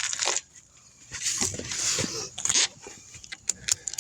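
Handling noise from a wheel and tire being fitted back onto the hub: rough scraping bursts, then a quick run of light metallic clicks near the end.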